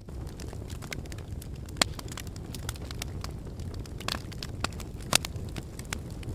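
Wood logs burning in a fireplace: a steady low rumble of flame under scattered crackles, with sharp louder pops about two seconds in and about five seconds in.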